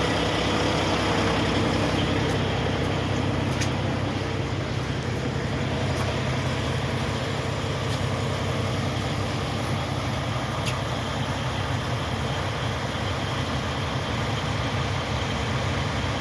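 Kenworth T700 truck's diesel engine running steadily at an even speed, with no revving.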